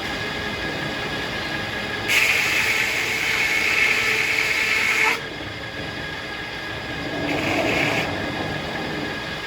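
Circular sawmill running with a steady whine. About two seconds in, the blade bites into a hackberry log and a loud, high-pitched cutting sound lasts about three seconds before stopping abruptly; a shorter, fainter cutting sound follows a couple of seconds later.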